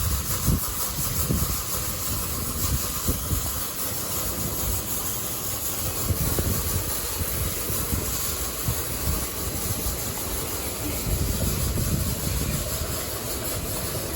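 LaserWash 360 touchless automatic car wash running: a steady hiss with a low rumble underneath.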